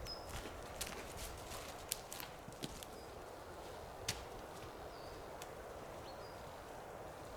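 Footsteps crunching irregularly over the forest floor, mostly in the first half, with a few short, high bird chirps.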